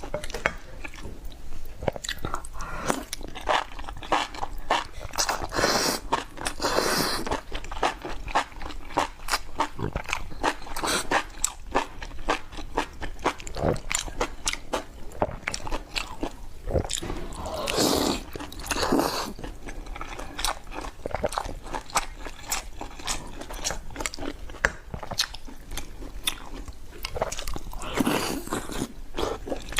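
Close-up chewing and biting: a person eating with many quick crunchy clicks and wet mouth sounds, with a few longer, louder crunching stretches.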